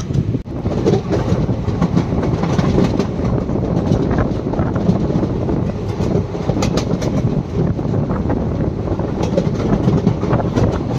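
Passenger express train running at speed, heard from an open coach door: steady rumble of the coaches with the wheels clattering over the rail joints in sharp clicks. The sound drops out briefly about half a second in.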